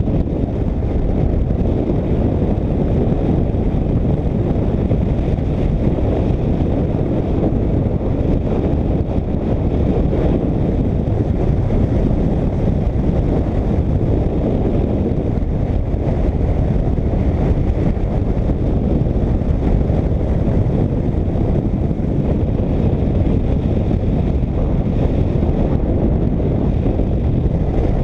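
Motorcycle riding at steady road speed: a constant low rush of wind over the microphone mixed with the engine and road noise.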